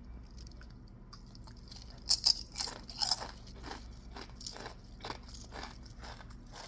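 Seasoned chips being bitten and chewed with crunches, the loudest bites about two to three seconds in, then lighter crunchy chewing.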